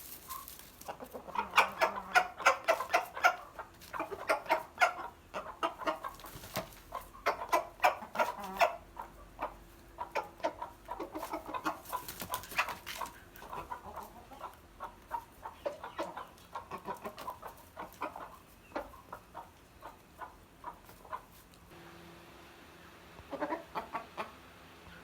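Aseel chickens clucking in long runs of short, rapid notes. The clucking breaks off for a couple of seconds near the end, then comes back in one brief run.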